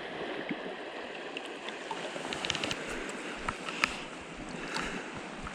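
Creek water rushing steadily, with a few short clicks and splashes over it.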